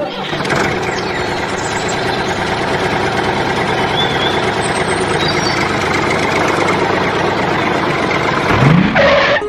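An engine or motor running steadily, with a short rising sweep near the end.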